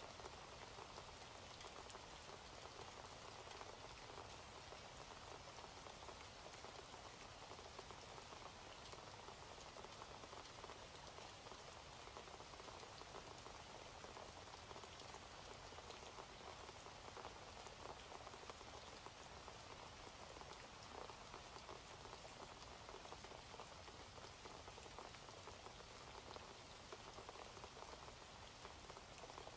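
Faint, steady rain: an even hiss dotted with the patter of single drops.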